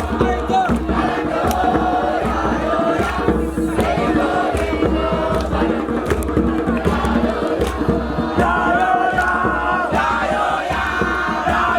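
A group of young voices chanting and singing together at a campfire, with sharp percussive hits along with the song.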